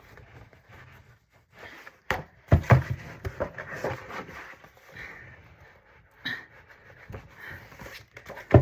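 Things being handled and set down on a table: rustling with irregular knocks and clicks, the loudest knocks about two and a half seconds in and again near the end.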